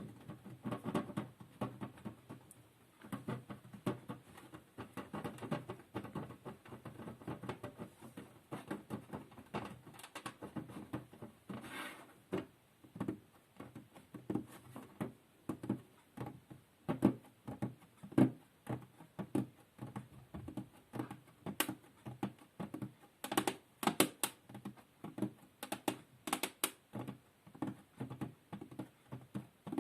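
Soft, quick tapping and clicking, several strokes a second, with a few sharper, brighter clicks about three-quarters of the way through.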